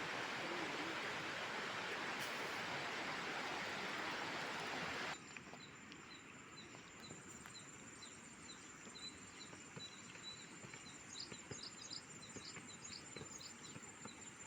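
A steady rushing noise cuts off abruptly about five seconds in. After that, a bird chirps repeatedly, two or three short chirps a second, with a few higher rising calls near the end, over a steady high-pitched insect drone.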